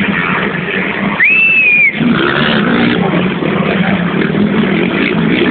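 Motocross motorcycle engines running on the track, a dense, loud engine noise throughout. Just over a second in, a short high tone rises and holds for under a second.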